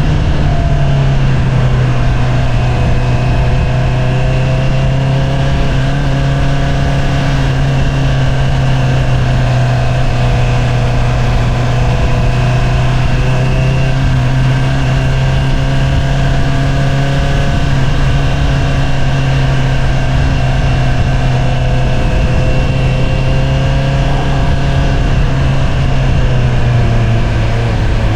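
A 2022 Honda CBR650R's inline-four engine running through an Akrapovič single-outlet exhaust while the bike cruises at a fairly steady speed. The pitch holds level, easing down a little just after the start and again near the end as the throttle is eased.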